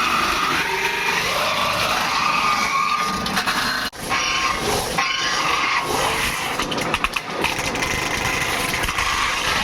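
Steady mechanical running noise of metalworking workshop machinery, with a sudden break nearly 4 seconds in and a few sharp clicks around 7 seconds.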